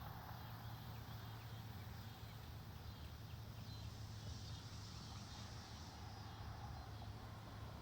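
Faint outdoor ambience of wind through trees: a steady low rumble and soft hiss with no distinct events.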